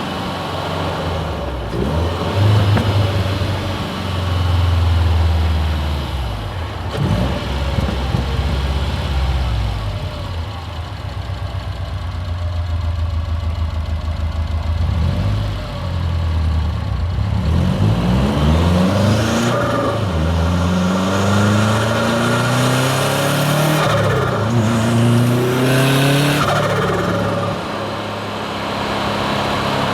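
Turbocharged Subaru WRX STI flat-four boxer engine, fitted with a hybrid turbo and an external wastegate. It runs at low revs at first, then accelerates hard through the gears from about halfway, its pitch climbing in steps. Bursts of turbo and wastegate hiss come between the pulls.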